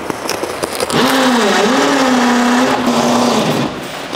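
A car engine running, its pitch dipping and rising once and then holding steady for a couple of seconds before it fades. Under it, the crackling and rustling of a cardboard box's tape being pulled and the box opened.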